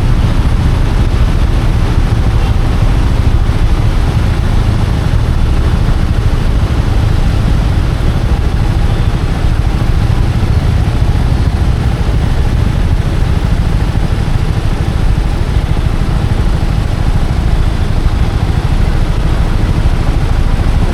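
A motorcycle riding along, its engine and road noise mixed with a steady low wind rumble on the microphone.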